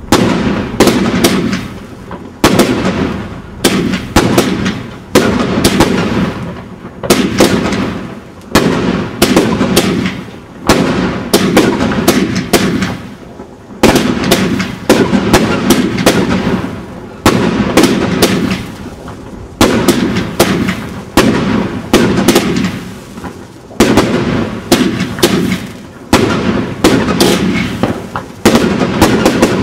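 Consumer fireworks going off in quick succession: an irregular string of sharp bangs from shells launching and bursting, often several a second, each dying away over about a second.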